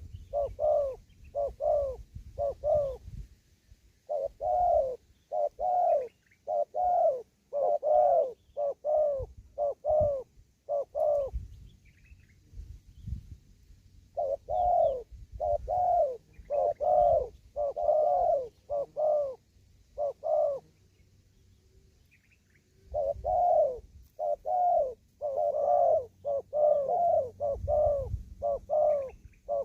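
Spotted dove cooing: runs of short rising-and-falling coo notes, about two a second, in long phrases broken by pauses of a couple of seconds.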